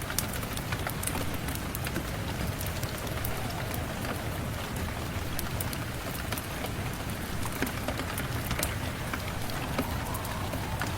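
Steady rain mixed with a crackling wood fire: a constant even hiss dotted with frequent sharp little pops and ticks.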